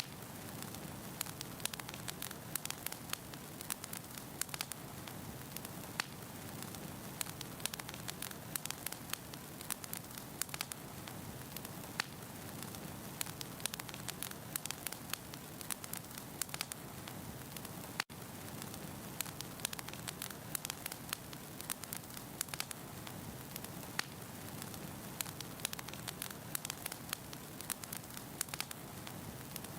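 Wood logs burning in a fireplace: a steady low rush of flame with dense, irregular crackles and pops, broken by a momentary dropout about two-thirds of the way through.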